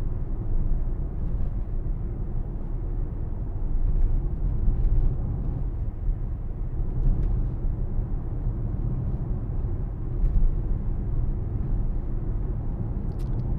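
Steady low in-cabin rumble of a Mercedes-AMG GLC63 S driving along at an even speed: road and engine noise with no revving.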